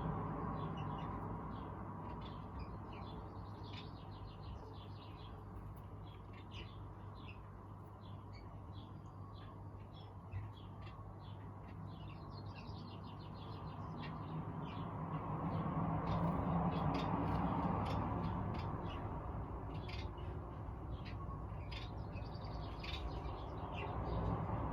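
Many small aviary birds chirping and twittering, with short, quick calls overlapping throughout. Under them runs a steady low rumble that swells about two-thirds of the way through.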